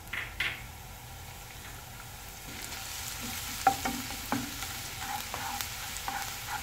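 Finely chopped garlic and ginger sizzling in hot coconut oil in a non-stick pan as the garlic fries toward golden. The sizzle grows louder partway through, and from about halfway on a wooden spatula scrapes and taps the pan as the mixture is stirred.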